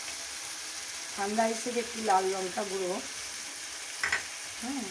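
Onion, tomato and ground-spice masala frying in hot oil in a pan, giving a steady sizzle as it is stirred, with a single sharp knock about four seconds in.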